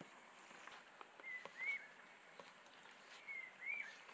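Faint bird chirps: a pair of short rising-and-falling chirps about a second in and another pair near the end, with a few faint clicks between them.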